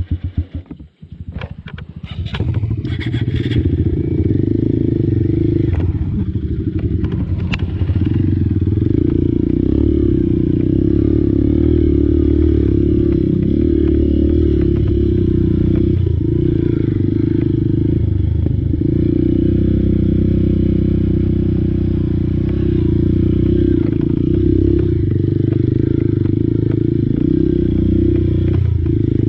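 Small single-cylinder four-stroke Honda dirt bike engine ticking over, a brief drop about a second in and a few clattering clicks, then running steadily and loudly under way.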